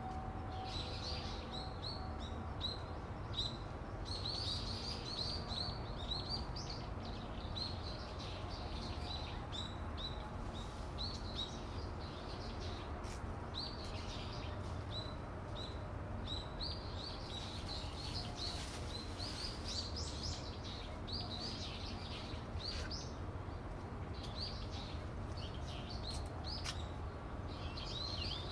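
Small birds chirping, with many short, high, repeated chirps in clusters, over a steady low rumble and faint hum.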